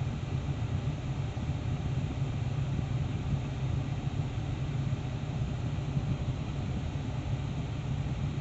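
Steady rushing noise with a heavy low rumble, even throughout, with no distinct events.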